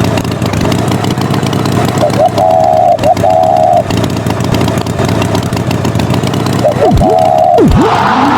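Engine running steadily. A higher held tone sounds twice, from about two to four seconds in and again near the end, and quick swooping pitch sweeps follow near the end.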